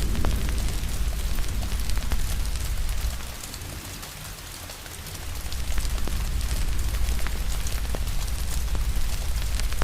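Steady rain with scattered crackling pops from a fire, over a deep low rumble that dies away for about two seconds near the middle and then comes back.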